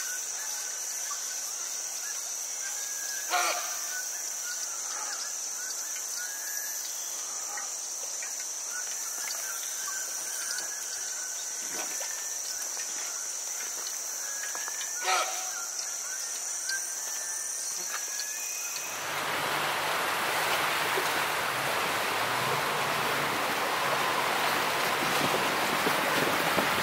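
Insects drone in a steady high-pitched chorus by a rainforest river, with two short calls about three seconds in and again about fifteen seconds in. About nineteen seconds in this gives way to a motorboat running upriver: a low engine hum under the loud rush of water and wind.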